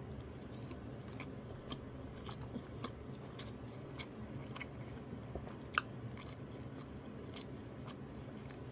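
A person chewing a mouthful of jokbal fried rice, with small scattered wet mouth clicks over a steady low hum. One sharper click comes just before six seconds in.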